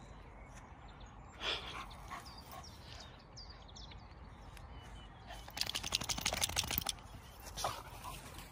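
Faint outdoor birdsong: short high chirps. About five and a half seconds in comes a rapid rattling run of clicks lasting about a second and a half, the loudest sound here. There are also brief louder sounds about one and a half seconds in and near the end.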